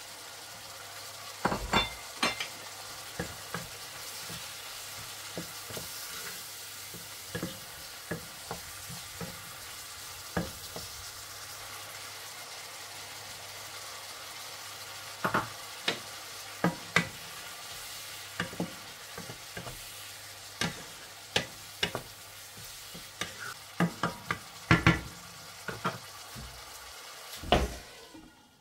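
Chicken and vegetables sizzling in a nonstick wok as they are stirred, with sharp knocks of a utensil against the pan in short clusters. Near the end a glass lid goes on and the sizzle drops away suddenly.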